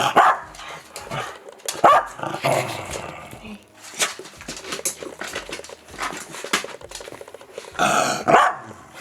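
A pet dog barking and vocalizing in a series of short, irregular bursts, the loudest cluster near the end.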